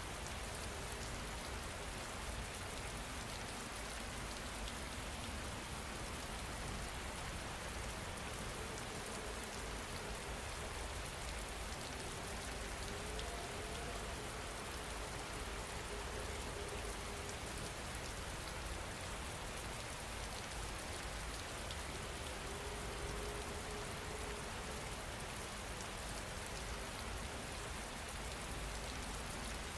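Steady rain falling, an even hiss of drops with no break in level.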